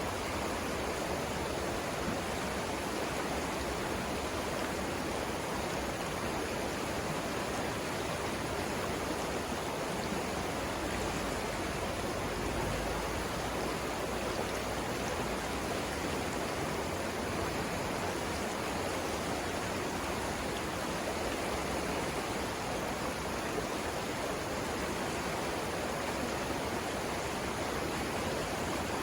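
Steady rushing of the Savannah River's water flowing over rapids, even and unbroken.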